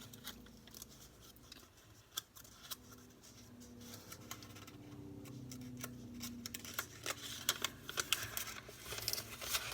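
Square sheet of origami paper being folded and creased by hand: crisp rustling and crinkling with sharp clicks, growing busier near the end.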